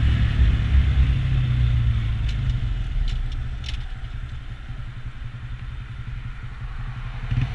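Honda Grom's 125 cc single-cylinder engine running as the bike is ridden, a steady low rumble that gets quieter through the middle and builds again near the end.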